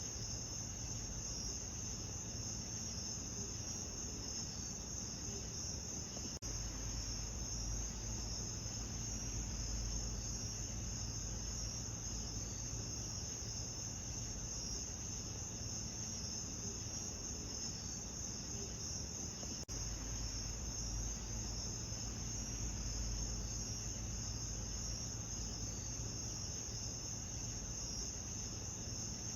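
Steady, high-pitched chorus of crickets chirring, over a low steady rumble. The sound dips briefly twice, about six seconds and about twenty seconds in.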